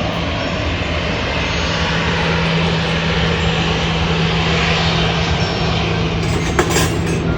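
Airliner engines running loud at takeoff power: a steady roar with a constant low hum, and a short click near the end.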